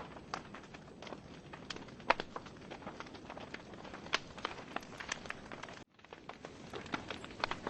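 Wood fire burning in a fireplace: irregular crackles and sharp pops from the burning logs over a soft hiss of flame. The sound cuts out for a split second a little before six seconds in, then carries on.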